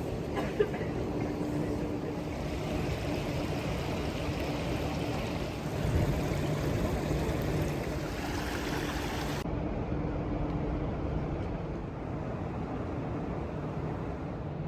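Steady outdoor ambience with a low engine hum running under it, and a single sharp click about half a second in.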